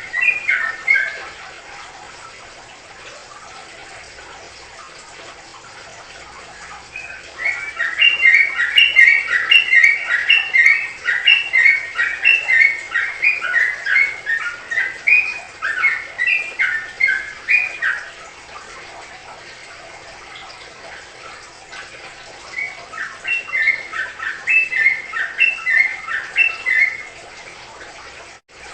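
A songbird singing in fast phrases of rapid, bubbling chirps: a brief one at the start, a long run of about ten seconds, and a shorter phrase near the end, with pauses between.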